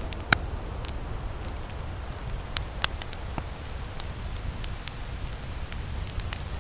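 Campfire crackling: irregular sharp pops and snaps, the loudest about a third of a second in and just under three seconds in, over a steady low rumble.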